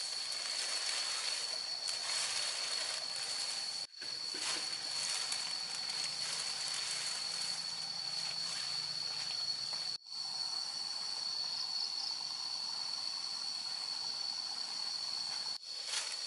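Outdoor ambience with a steady, high-pitched insect drone over a hiss of background noise, cutting out briefly three times.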